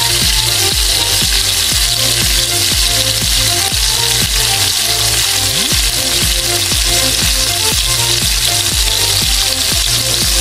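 Turon, banana spring rolls in lumpia wrappers, sizzling steadily as they fry in hot oil in a wok. Background music with a steady beat plays over it.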